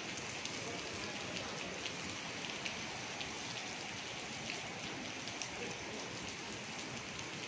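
Heavy rain pouring steadily onto wet paving, an even hiss with scattered sharp drop ticks.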